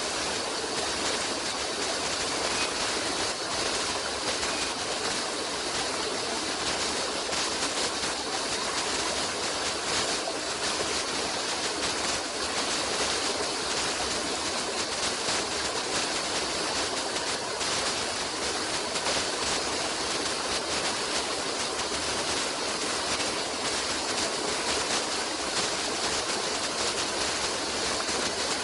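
Flowing water rushing steadily, like a stream.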